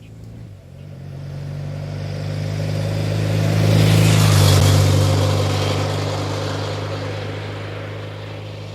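A road vehicle passing by. Its engine hum and tyre noise swell to a peak about four seconds in, with the pitch dropping slightly, then fade away.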